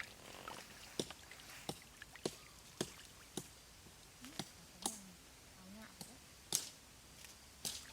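A lift net raised with its catch: irregular sharp slaps and taps, about one every half second to a second, with a few short low sounds in between, typical of small fish flapping in the net and water dripping from it.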